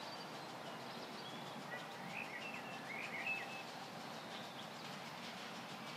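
Faint bird chirps, a few short ones about two to three seconds in, over steady low background noise.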